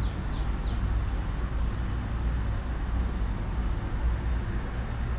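Steady low background rumble with no speech, with a few short, faint high chirps in the first second.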